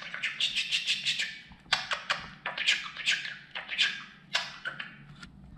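Male budgerigar warbling and chattering in quick chirps and clicks, in bursts broken by short pauses.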